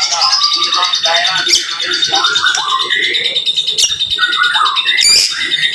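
White-rumped shama (murai batu) singing a dense, rapid-fire run of varied phrases: quick rising and falling whistles and chips one after another, broken by a few sharp clicking notes.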